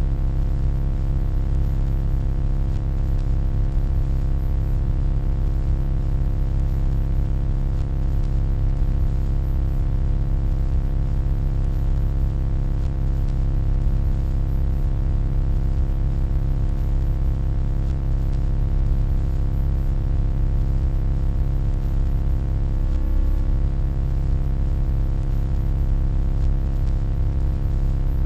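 Steady electronic hum, strongest in a deep bass drone, with a stack of fainter steady tones above it. Late on, the tones waver briefly before settling again.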